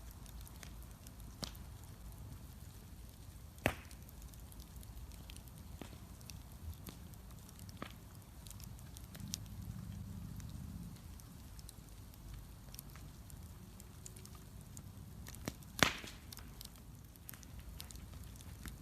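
Wood bonfire crackling, with scattered small snaps over a low steady rumble and two sharp louder pops, one about four seconds in and one near the end.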